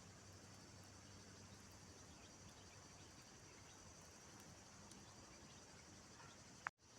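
Near silence: faint ambience with a steady high hiss, broken near the end by a brief click and a moment of total silence.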